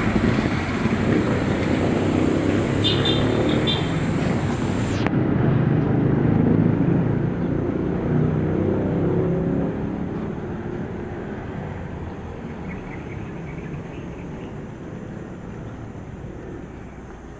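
Steady rumble of motor-vehicle noise, heaviest in the low end. The high end cuts out abruptly about five seconds in, and the sound grows gradually fainter over the second half.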